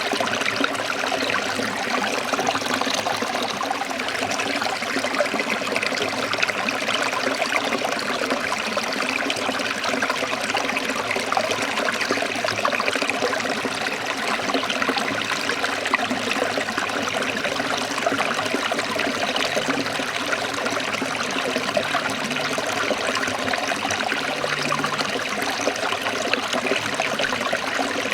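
Small forest stream trickling and splashing over rocks, a steady flow of water.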